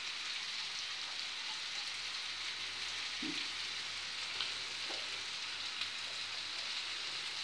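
Chopped onions and green peppers sizzling steadily in oil in a frying pan.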